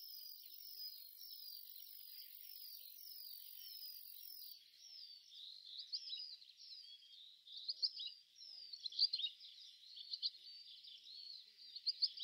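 Small birds chirping faintly: a repeated short falling note about twice a second, turning into busier, more varied chirping about halfway through.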